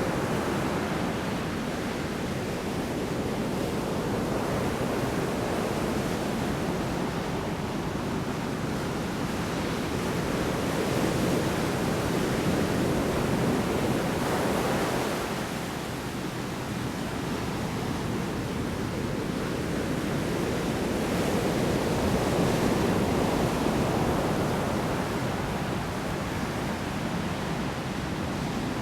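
Heavy surf in a storm: large waves breaking on the shore in a continuous wash that swells and eases every several seconds.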